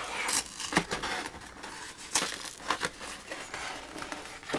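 A mail package's packaging rustling and crinkling as it is handled, in a string of short, sharp crackles.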